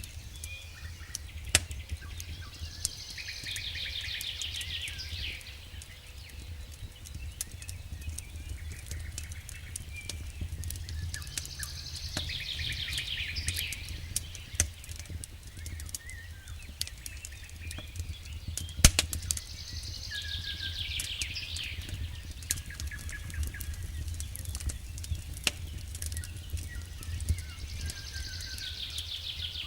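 Wood fire in a fireplace crackling, with scattered sharp pops (one louder pop about two-thirds through) over a low, steady rumble. A high, rapid trill that falls in pitch repeats about every eight seconds.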